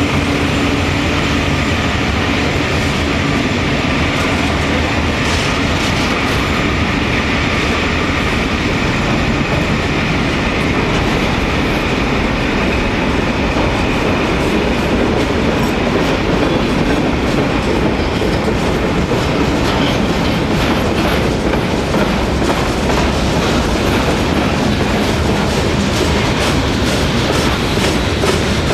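Freight train cars rolling past on a grade, steel wheels clicking steadily over the rail joints. The clicking becomes sharper and more frequent in the second half.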